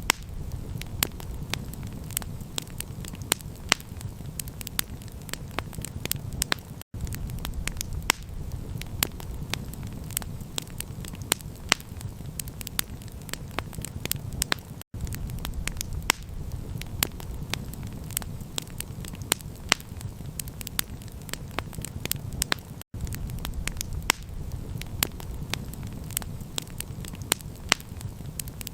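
Campfire crackling, with dense sharp pops and snaps over a steady low rumble. The sound cuts out for an instant about every eight seconds.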